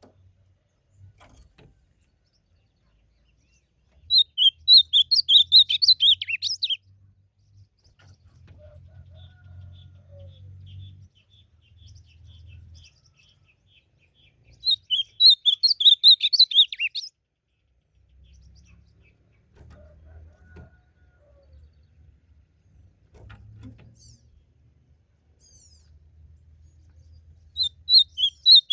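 Ultramarine grosbeak singing: three loud, rapid warbled phrases about two and a half seconds long, roughly ten seconds apart. A fainter run of thin, quick notes comes between the first two phrases, over a faint low rumble.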